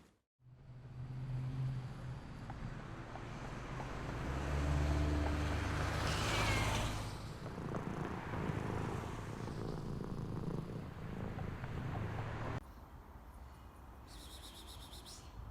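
A domestic cat purring close up, a steady low pulsing purr that stops abruptly about twelve and a half seconds in.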